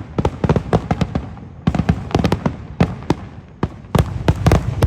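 Fireworks going off in a rapid, irregular string of sharp bangs, several a second, with a short lull a little after three and a half seconds in.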